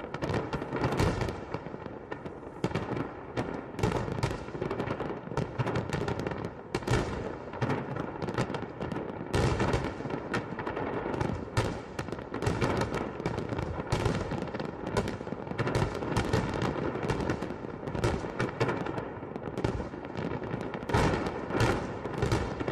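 Fireworks salute: a continuous, rapid run of aerial firework shells bursting, bang after bang with no pause.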